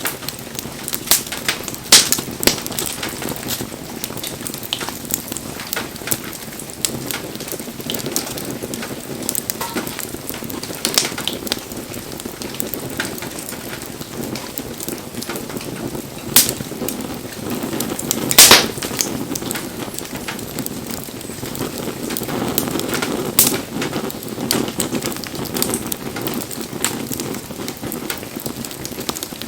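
Wood fire crackling, with a steady hiss of flames and irregular sharp pops of burning firewood; the loudest pop comes a little past the middle.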